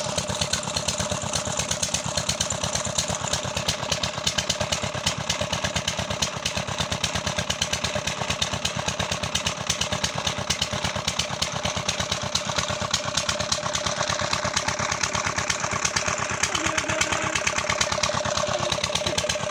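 A stationary engine running steadily with an even, rapid firing beat and a constant whine underneath.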